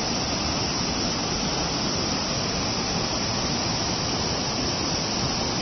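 Minoh Falls waterfall: a steady, unbroken rush of falling water, picked up by a phone's microphone.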